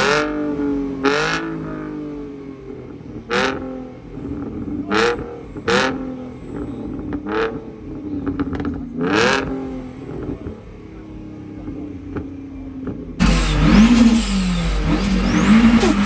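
A car engine revved repeatedly while standing, the pitch climbing quickly and falling back about half a dozen times, with sharp cracks at several of the rev peaks. About 13 seconds in, it cuts to a louder engine sound with a wavering, rumbling pitch.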